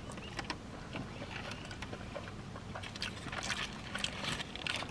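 Faint close-up chewing and mouth sounds of a person eating nacho cheese tater tots, with scattered small wet clicks. Near the end, a light rustle of paper as a wrapped burger is handled.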